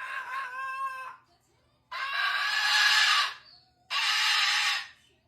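Macaw parrot screaming: a wavering call that ends about a second in, followed by two loud, harsh squawks of about a second each, with short gaps between them.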